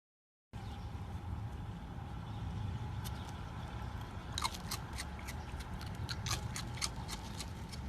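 A low steady hum with a scatter of sharp clicks and snips, starting about three seconds in and coming irregularly, several a second at times.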